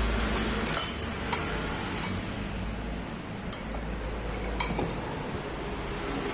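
Cutlery and dishes clinking now and then, a handful of sharp clinks over a steady background hum.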